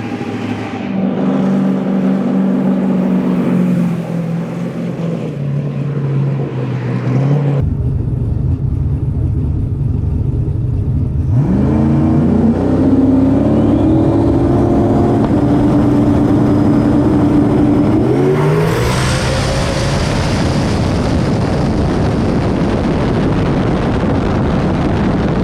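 Drag race car making a pass: the engine runs steadily, then goes to full throttle, its pitch sweeping up through several gear changes, followed by a loud rush of noise.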